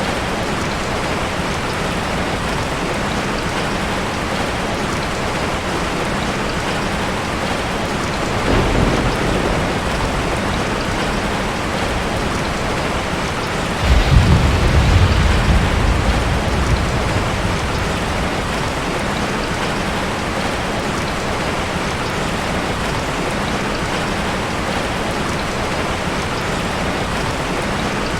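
Steady rain falling, with thunder: a softer rumble about a third of the way in, then a louder clap and rumble about halfway through that dies away over a few seconds.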